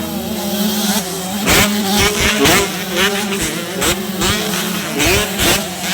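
Grasstrack and motocross racing motorcycle engines revving, their pitch rising and falling again and again, with several bikes sounding at once.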